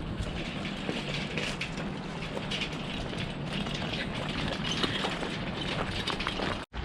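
Heavily loaded pull cart, one of its tires broken, being hauled along: a steady rumble of rolling wheels with many small rattling clicks. The sound cuts out abruptly near the end.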